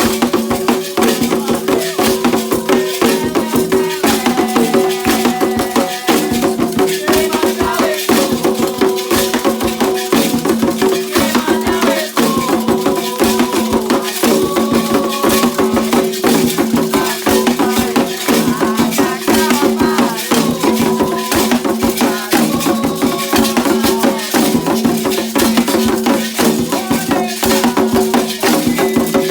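Candomblé ritual percussion music with shaken rattles in a fast, unbroken rhythm.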